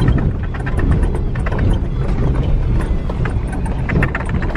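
2008 Ford F-150 FX4 pickup driving over a rough dirt trail: a steady low rumble of tyres and drivetrain with a dense run of irregular clicks and rattles from gravel and the truck's body and contents.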